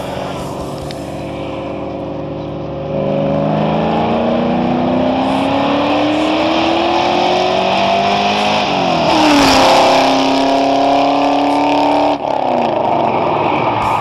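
1979 Ford Mustang Cobra accelerating hard toward the listener, its engine note climbing steadily in pitch, then passing close by about nine seconds in, where it is loudest and the pitch drops.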